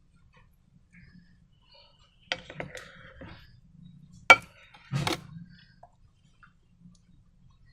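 Short clicks and knocks of hard objects being handled, a small cluster followed by one sharp, loud click about four seconds in and a few more knocks just after.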